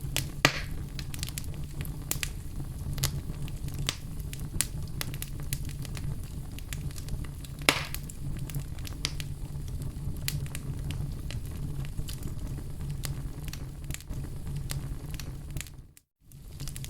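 Wood fire burning in a fireplace: a steady low rumble of flames under constant crackling, with two louder pops, one about half a second in and one near the middle. The sound cuts out for a moment near the end.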